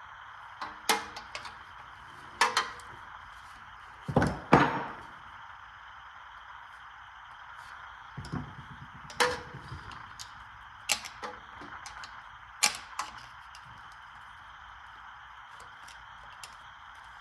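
Scattered sharp knocks and clanks of hand tools against metal engine parts, about eight in all, the loudest pair about four seconds in, over a steady faint hiss.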